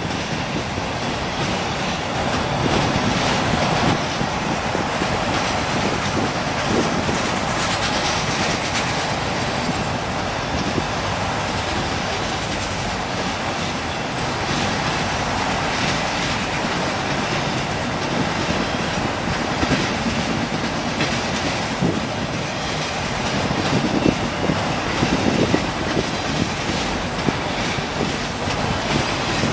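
A train rolling past: a steady rumble of rail cars with repeated clicks from the wheels.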